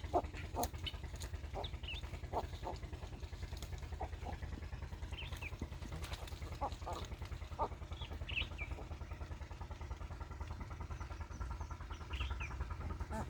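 Farmyard birds giving short, scattered chirps and calls over a steady low engine-like rumble.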